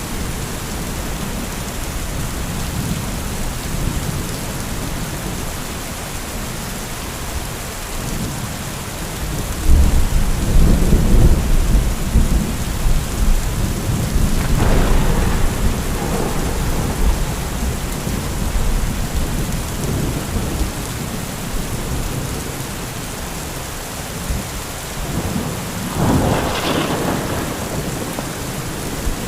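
Heavy thunderstorm: steady downpour of rain with rolling thunder. A deep rumble breaks in about a third of the way through and is the loudest sound, and sharper, higher-reaching peals come around the middle and near the end.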